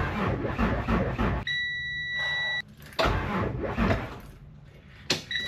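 Food truck's diesel engine cranking on the starter in two tries without catching. A steady electronic beep sounds between the tries and briefly again near the end. The failure is one the owner puts down to gelled diesel fuel.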